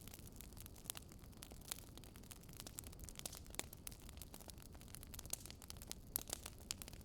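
Wood fire crackling, with irregular sharp pops and snaps over a low, steady hiss.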